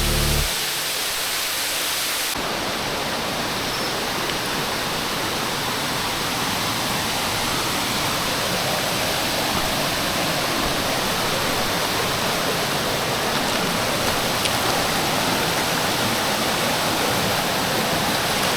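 Waterfall on Kitchen Creek, water rushing down in a steady, even roar, after a moment of background music that cuts off at the very start.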